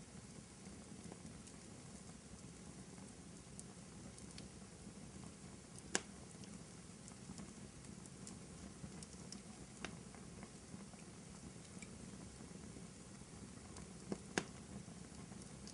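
Wood fire crackling in a fireplace: a soft steady rush with scattered small crackles and a few sharp pops, the loudest about six seconds in and two more close together near the end.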